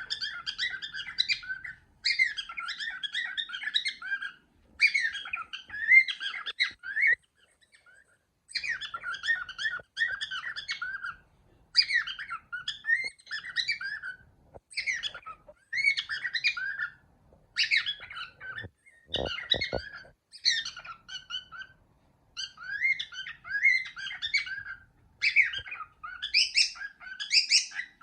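Pet cockatiel chirping and whistling in repeated short bouts of warbling chatter, separated by brief pauses. A few short knocks sound about nineteen seconds in.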